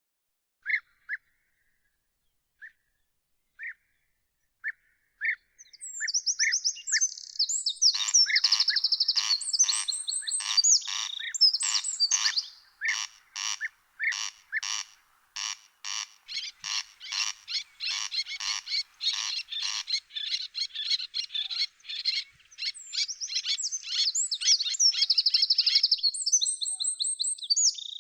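Songbirds singing: a few short separate notes at first, then high warbling phrases and a long run of sharp, evenly repeated notes about two a second, then more high warbling near the end.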